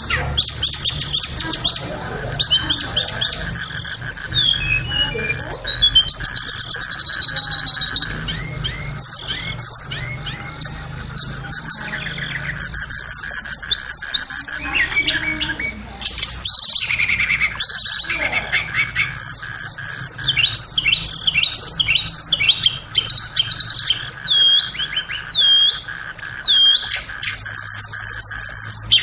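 Tledekan (blue flycatcher) song: a long run of rapid, varied chirps, trills and whistled phrases, one after another with only short pauses, over a faint steady hum.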